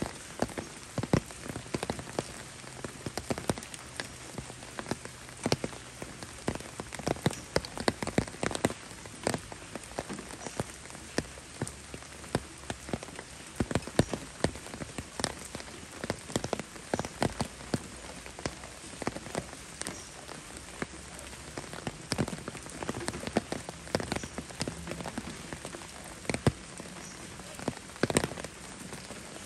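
Rain falling: a steady hiss with many sharp, irregular drop taps.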